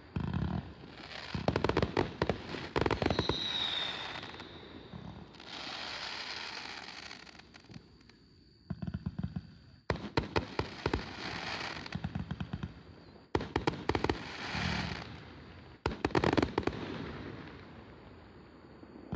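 Multi-shot consumer fireworks cake (Blizzard of Oz, 268 shots) firing volleys of rapid shots every few seconds, each followed by a fading crackle from the bursting effects. A short falling whistle sounds about three seconds in.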